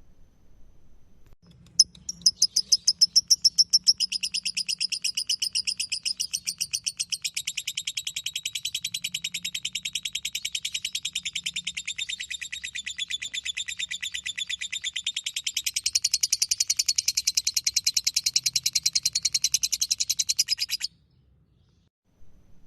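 Lovebird 'ngekek': one long, fast chattering trill of rapidly repeated high notes, going on unbroken for about nineteen seconds. It starts loud, eases a little, grows louder again near the end and stops abruptly.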